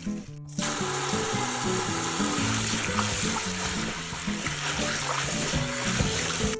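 Water running steadily from a kitchen tap, starting about half a second in, over acoustic guitar background music.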